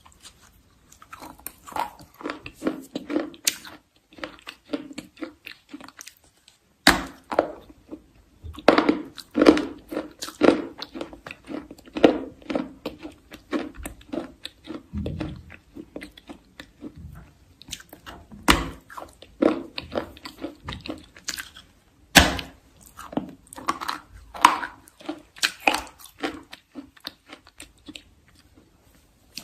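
Close-miked biting and chewing of something crunchy: sharp crunches at irregular intervals, in louder runs, with quieter chewing and short pauses between.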